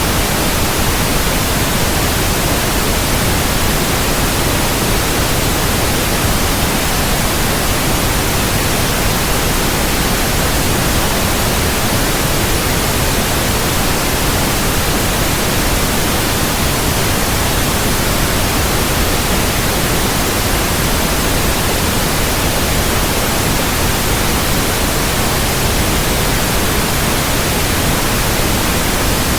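Steady, loud white noise, an even hiss across the whole range, unchanging throughout.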